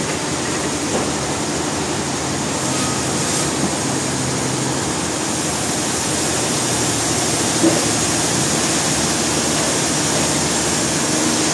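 Sawmill machinery running steadily: a continuous mechanical noise with a faint low hum underneath.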